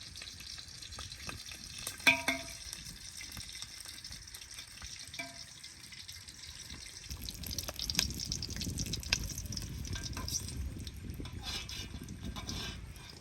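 Food frying in hot oil with a steady sizzle while it is stirred, with scattered clicks and two short clinks, the louder about two seconds in and the other about five seconds in.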